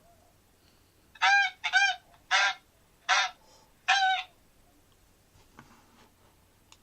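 Goose honking: five short honks in about three seconds, the second following the first closely.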